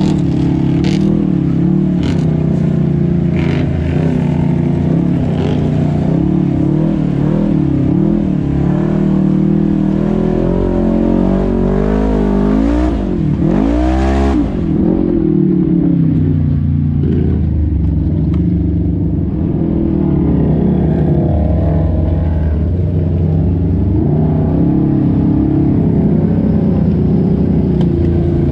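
Side-by-side UTV engines running and revving, their pitch rising and falling unevenly; about halfway through the pitch sweeps sharply down and back up.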